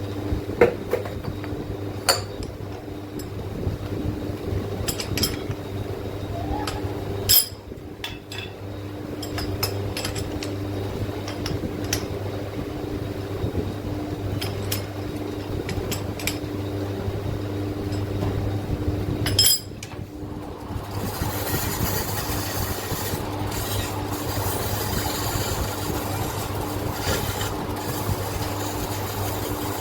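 Metal parts clinking and knocking now and then over a steady motor hum. About two-thirds of the way through, a steady hiss joins in.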